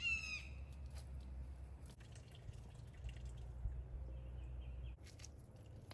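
A Muscovy duck's short, high, falling call at the very start. It is followed by faint scattered dripping clicks over a low steady hum that cuts off about five seconds in.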